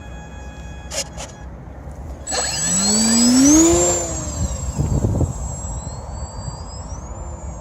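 Sukhoi model jet's engine whine rising suddenly a couple of seconds in, gliding up in pitch to its loudest and then easing, with a second rise in pitch near the end.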